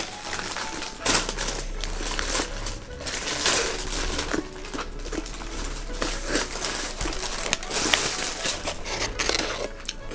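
Close-up chewing of a mouthful of toasted sandwich with lettuce: irregular crunching.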